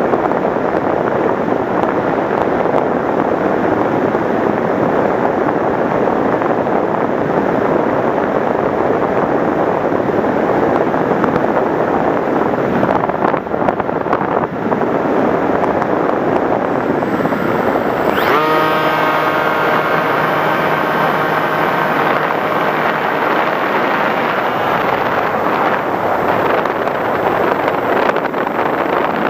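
Wind rushing over the onboard microphone of an FPV Raptor model plane in flight. About two-thirds of the way through, a motor whine rises in pitch, holds steady for several seconds, then fades back under the wind.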